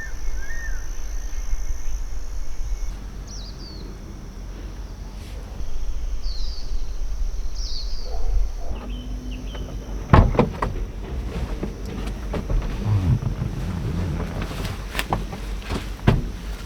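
Outdoor morning ambience: several short bird chirps over a steady low rumble and a steady high hiss, then a few sharp knocks in the second half.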